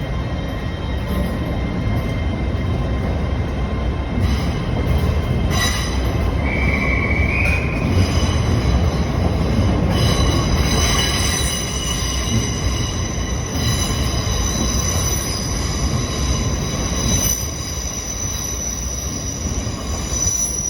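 LNER Class 800 Azuma train moving off slowly, its wheels squealing in several high, steady tones over a low rumble. The squeal strengthens about halfway through, with a brief separate squeal around seven seconds in.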